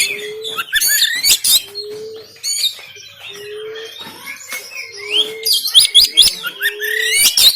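Oriental magpie-robin (kacer) singing a loud, varied song of rapid whistles and harsh chattering notes. Underneath, a short low note repeats about every second and a half.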